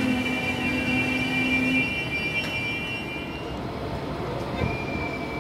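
Deutsche Bahn Intercity coaches rolling past and away along the platform. A steady low hum and high wheel-squeal tones sound over the rolling noise, then fade out about halfway through, leaving a quieter rumble.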